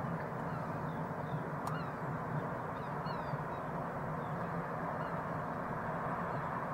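Steady distant rumble and hiss, with small birds chirping in short falling notes many times above it.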